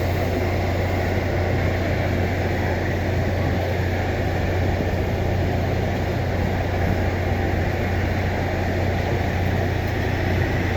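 Heavy diesel engine running steadily, a constant low hum with no change in speed.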